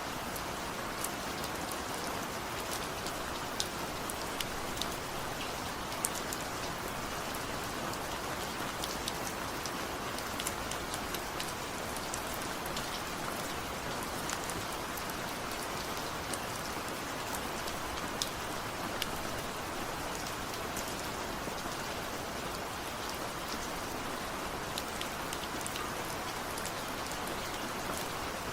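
Steady rain, an even hiss with many separate drops ticking sharply on a surface.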